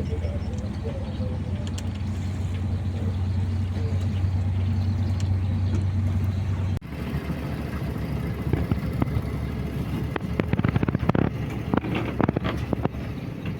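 A boat's engine running with a steady low drone. About halfway through it cuts off abruptly, and a rougher, noisier rumble with scattered sharp knocks and clatters follows.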